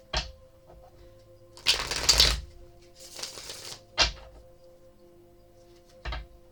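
Tarot cards being shuffled: a loud flutter of cards about two seconds in and a softer rustle soon after, with sharp taps of the deck near the start, at about four seconds and near the end. Soft steady background music runs underneath.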